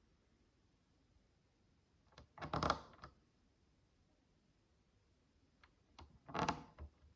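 Tiny plastic micro bricks being handled: two short bursts of clicking and rattling, one about two and a half seconds in and another near the end, with quiet in between.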